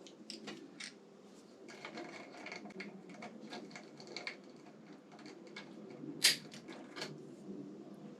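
Light clicking and rustling of hands working at motorcycle wiring and connectors, with one sharper click about six seconds in.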